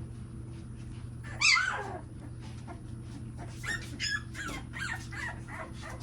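Two-week-old American Bully puppy crying: one loud, high squeal that falls in pitch about a second and a half in, then a run of short, high whimpers and yips several times a second.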